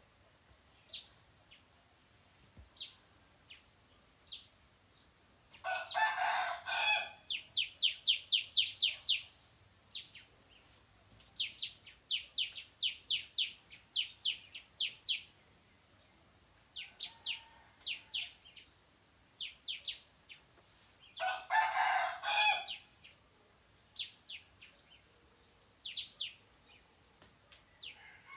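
A rooster crows twice, about six seconds in and again about twenty-one seconds in, each crow lasting just over a second. Between the crows a small songbird gives quick runs of high, sharp chirps.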